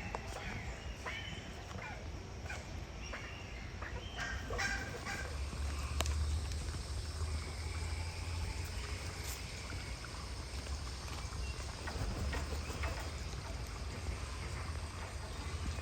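Scattered short bird calls over steady outdoor background noise, with a low rumble through the middle.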